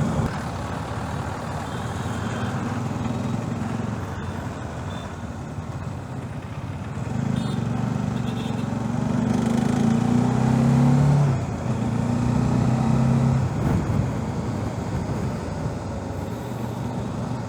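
Riding on a Bajaj Dominar motorcycle: a steady rush of wind and road noise, and from about seven seconds in the single-cylinder engine note rises under acceleration, dips once, climbs again, and then sinks back under the wind.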